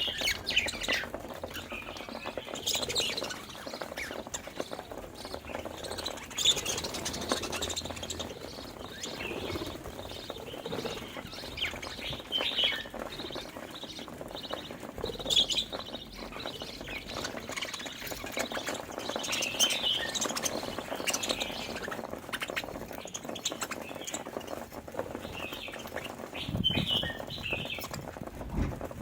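Several budgies chirping and chattering together in a steady run of short warbling calls.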